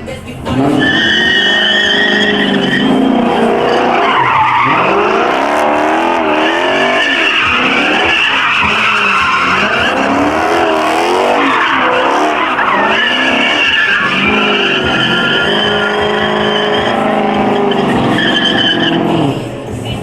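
A car's tyres squealing continuously under wheelspin, with the engine revving up and down beneath, as in a burnout or donuts. It starts sharply about half a second in and drops away near the end.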